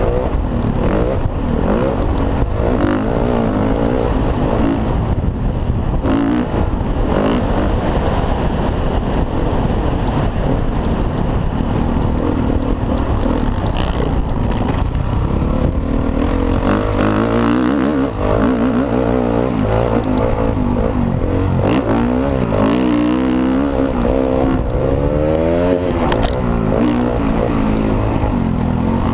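Motocross dirt bike engines running hard, their pitch repeatedly rising and falling as they rev up and shift.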